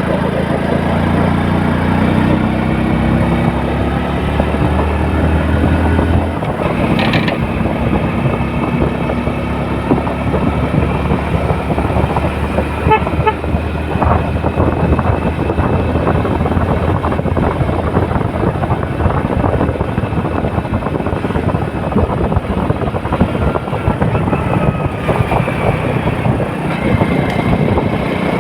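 Road traffic: vehicle engines running with a steady rush of noise, and a horn tooting now and then.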